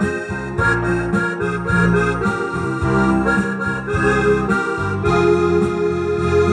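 Yamaha PSR-S670 arranger keyboard playing a Gypsy song, an accordion-like melody and chords over a steady bass accompaniment.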